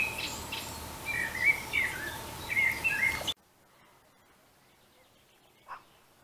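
A songbird singing in short, quick chirpy phrases over a steady outdoor hiss. About three seconds in, everything cuts off abruptly to near silence, broken only by two faint ticks.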